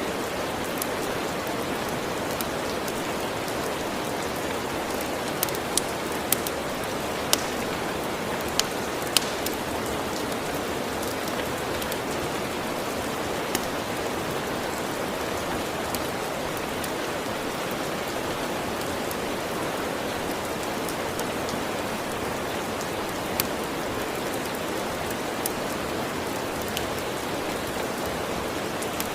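Steady rain falling, a continuous even hiss, with sharp pops from a crackling wood fire scattered through it, a cluster of them a few seconds in and a few more later.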